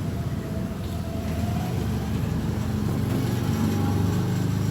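An engine running close by, a low pulsing rumble that grows louder about halfway through.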